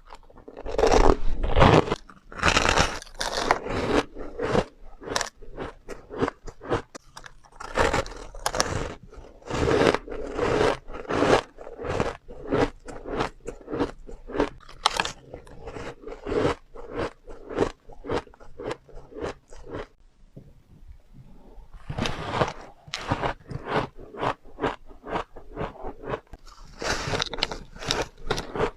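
Close-up chewing of refrozen powdery ice taken in big bites: a rapid run of soft crunches, loudest in the first few seconds, with a short pause about two-thirds of the way through before the crunching picks up again.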